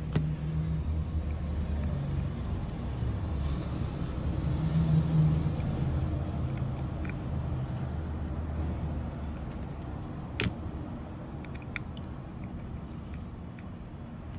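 Steady low rumble of a motor vehicle, swelling briefly about five seconds in, with a sharp click about ten seconds in.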